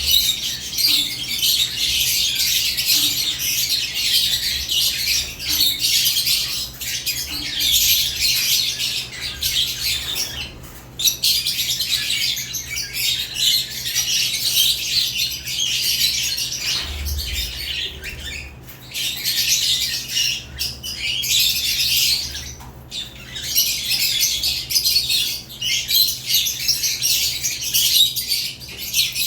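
Several caged lovebirds chirping continuously in a dense, high-pitched chatter, with a few short breaks.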